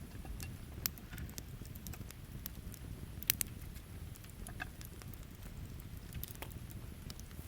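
Wood campfire crackling, with scattered sharp pops of burning wood, two of the loudest coming close together about three seconds in, over a steady low rumble.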